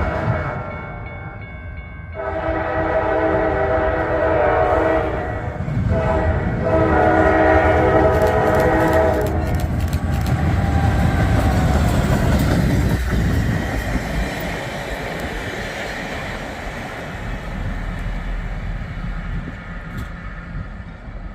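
Diesel locomotive horn on the CSX track geometry train sounding a multi-note chord in two long blasts, then the train passing with a heavy rumble and wheels clicking over the rail joints, fading away over the last several seconds.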